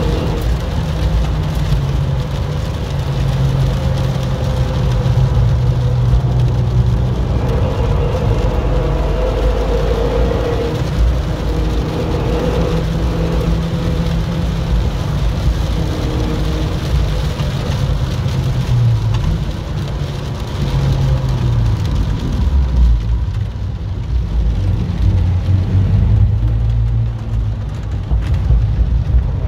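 Renault Mégane's engine running under load, heard from inside the cabin, with rain and spray hissing against the car. The engine note shifts a few times as the car changes speed.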